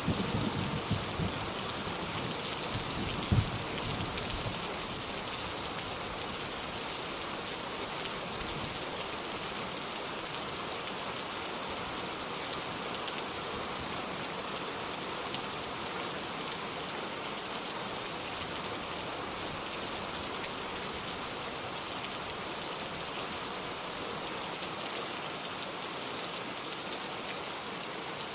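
Steady heavy rain falling, an even hiss of many drops. A low rumble of thunder fades out over the first few seconds, and there is one sharp tap about three seconds in.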